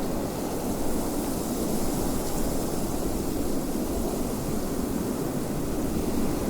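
Steady wind blowing: an even rushing noise, strongest low down, with a thin high hiss over it and no gusts standing out.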